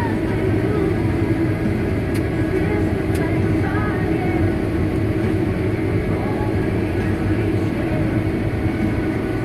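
Combine harvester running steadily under load, its engine and machinery making a constant drone.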